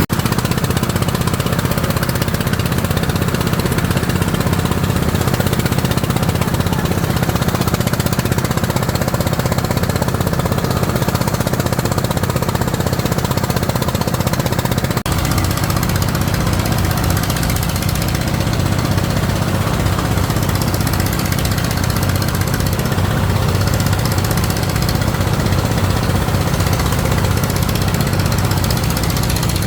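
A small engine running steadily at constant speed, with a brief break about halfway through.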